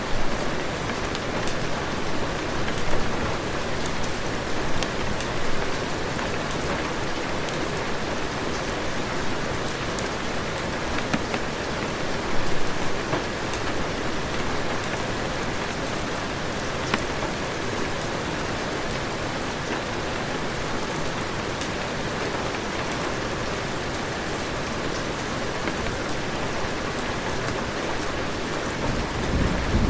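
Heavy rain falling steadily, with scattered drop ticks. A low rumble of thunder begins near the end.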